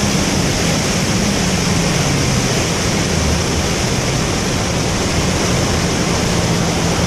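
Loud steady wind and road rush from a car at speed, with a low engine hum underneath that drops slightly in pitch and then holds steady, off the throttle after the pull.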